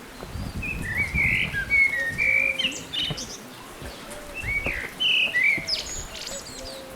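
Songbird singing: short chirping phrases of a few notes each, in two bursts, one starting about half a second in and another about four and a half seconds in, with a fainter lower call repeating underneath.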